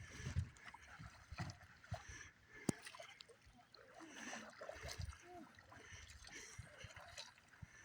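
Faint splashing and water lapping from a kayak being paddled, with scattered soft knocks and faint distant voices.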